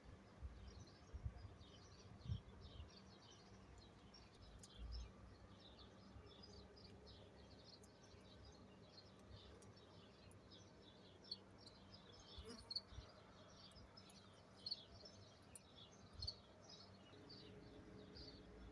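Faint, continuous chatter of small songbirds: many short, high chirps in quick succession, with a few brief low thumps.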